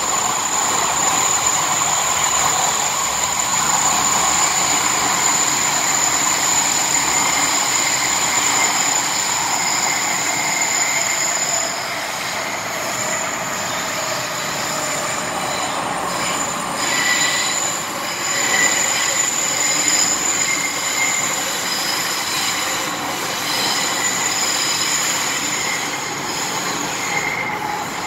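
MTR M-Train running through an underground tunnel, with continuous wheel and rail noise and a steady high whine. About twelve seconds in the running noise eases a little, and short high wheel squeals come and go after that.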